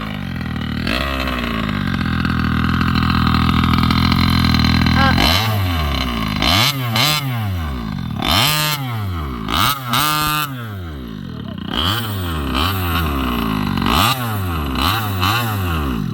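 SCZ 70cc two-stroke engine of a large-scale RC car, fitted with a new cylinder, held at high revs for a few seconds. It is then revved up and down in about a dozen quick throttle blips, and cuts off suddenly at the very end.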